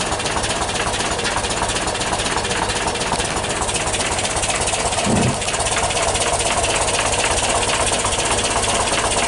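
The 2-litre twin-carburettor air-cooled flat-four of a 1977 VW T2 camper van idling steadily and evenly, warming up after a cold start. A short low sound briefly stands out about five seconds in.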